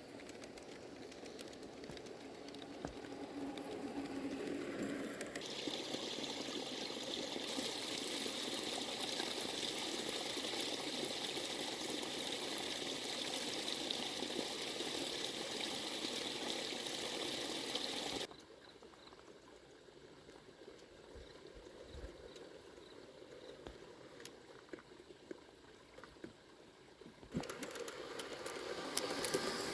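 Steady rain falling, with water trickling and pouring. It runs at a constant level within each stretch but jumps abruptly several times, dropping to a much fainter patter for several seconds in the later part before coming back up near the end.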